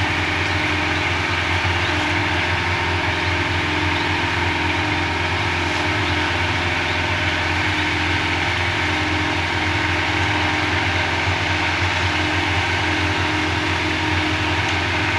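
Concrete mixer machine's engine running steadily at an even pitch while concrete is being poured.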